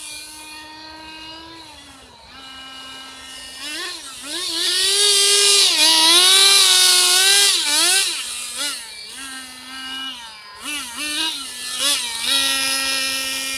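Small nitro engine of a radio-controlled drift car running and revving up and down: it holds a steady buzzing note, swells to its loudest and highest about five to eight seconds in, then gives a run of short throttle blips. The owner finds the engine still runs a bit high.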